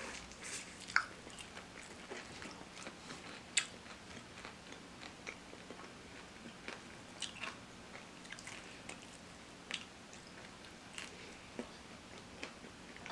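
Close-miked chewing and biting of crispy fried chicken: irregular small crunches and wet mouth clicks, with a sharper crunch about a second in and another a few seconds later.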